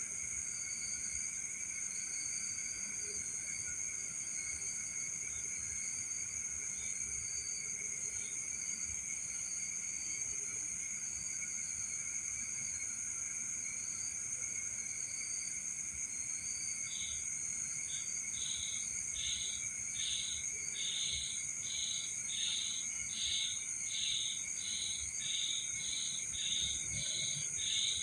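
Night chorus of crickets and other insects trilling steadily at several high pitches. About two-thirds of the way in, another caller joins with a short pulsed chirp repeated roughly once or twice a second.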